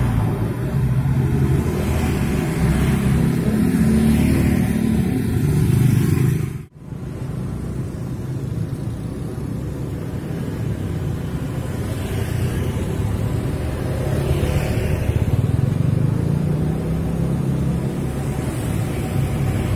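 Steady road traffic, cars and motorcycles running past, with the rumble of engines and tyres. The sound drops out for an instant about a third of the way in, then carries on.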